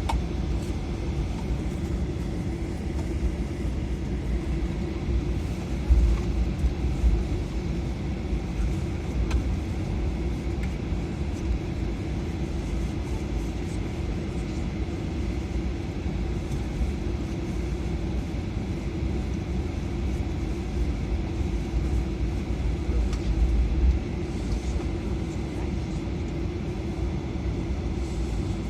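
Steady low rumble of an Airbus A320's cabin as the airliner taxis after landing, its engines running at idle. It swells louder twice, about six seconds in and again near the end.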